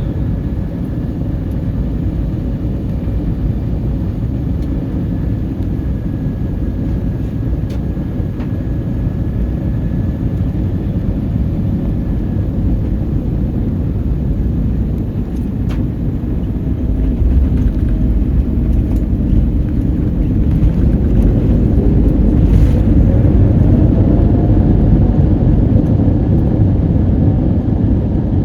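Cabin noise aboard an Airbus A321neo: a steady low rumble of engines and airflow. It grows louder about two-thirds of the way through, with an engine tone rising in pitch as the thrust increases.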